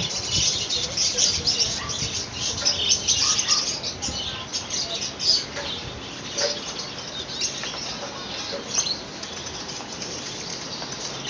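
Many small caged birds chirping and twittering together, busiest in the first half and thinning out after about six seconds.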